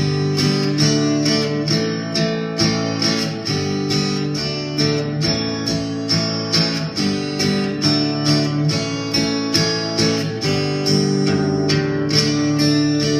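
Instrumental break of a country-style song: acoustic guitar strummed in a steady rhythm, with no singing.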